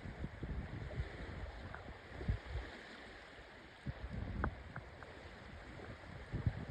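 Wind buffeting the microphone in uneven low gusts over a steady wash of running water.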